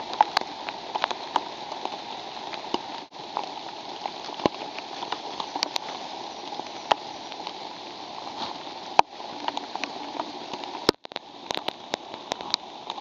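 Steady rain falling, a constant hiss with many sharp drops ticking close by. The sound drops out briefly twice.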